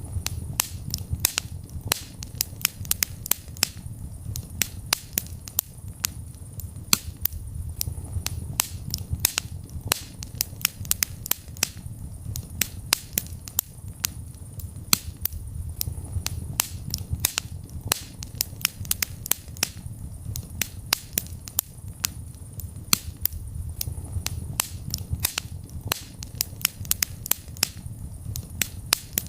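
Wood fire crackling in a fireplace: many sharp pops and snaps, several a second and irregular, over a low steady rumble of the burning flames.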